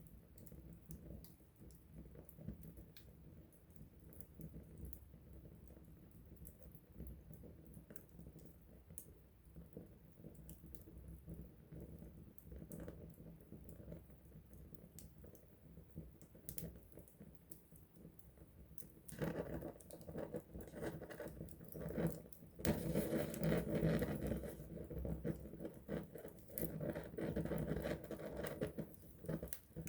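Wood campfire crackling, with scattered small sharp pops; about two-thirds of the way through, the crackling becomes much louder and denser.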